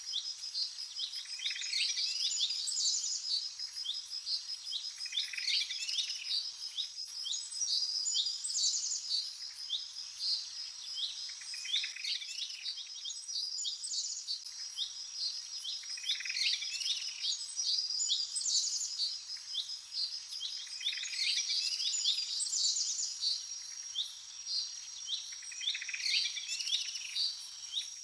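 Several birds chirping and singing in short repeated phrases, over a steady high-pitched pulsing trill.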